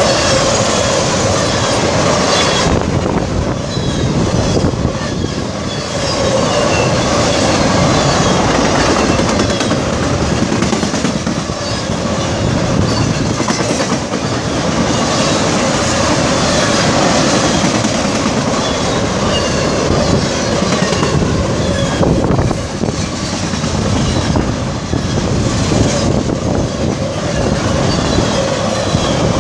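A train's cars rolling steadily past close by: a continuous rumble of steel wheels on the rails, with a clickety-clack as the wheels cross rail joints.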